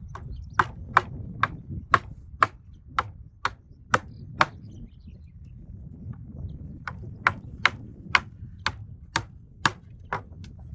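Hammer blows, about two a second, in two runs of eight or nine strikes each with a short pause between, each blow ringing sharply.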